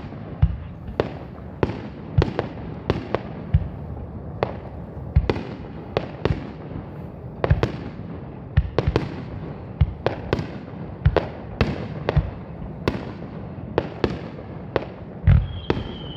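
Fireworks shells bursting at close range: an irregular run of sharp bangs, one or two a second, each with a short echoing tail. Near the end a high whistling tone begins and slowly falls in pitch.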